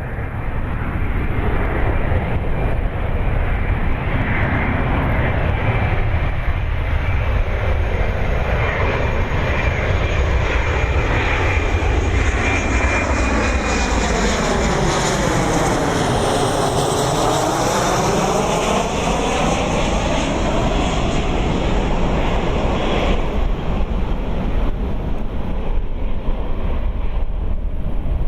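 Boeing 737-500 airliner with CFM56-3 turbofan engines flying past on arrival. The jet noise and a high engine whine swell and sweep in pitch as it passes closest, about halfway through. The whine drops away suddenly, leaving a low rumble.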